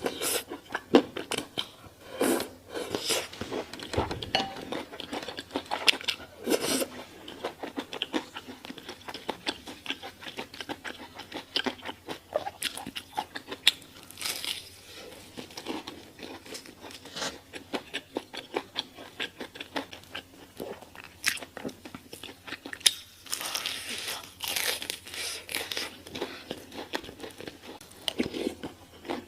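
Eating sounds: crunchy bites and chewing of fried chicken, a dense run of crisp crackles, busiest about two-thirds of the way through.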